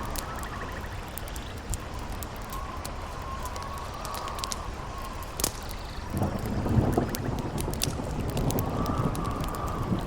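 Campfire crackling with many sharp pops, over a howling wind whose whistling tone rises and falls. About six seconds in, a low rumble of thunder swells beneath it.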